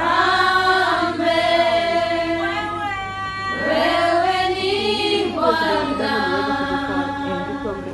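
A group of women singing together unaccompanied, with long held notes.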